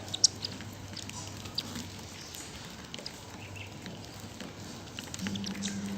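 Sparrows feeding on foxtail millet seed: scattered quick, high ticks and short chirps over a faint low hum. A steady low drone comes in near the end.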